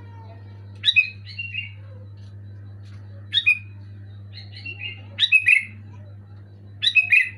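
Sooty-headed bulbul (kutilang) singing loud, short chirpy phrases, about five of them in a row one to two seconds apart, over a steady low hum.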